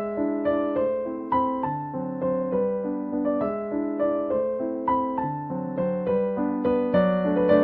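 Slow, gentle piano music: single melody notes struck two or three a second over held lower notes and chords.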